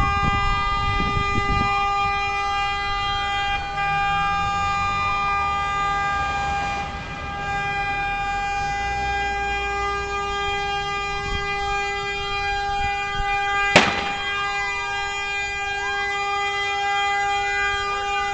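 Emergency siren with a slow rising and falling wail over a steady, unbroken horn-like tone. A single sharp crack about three quarters of the way through.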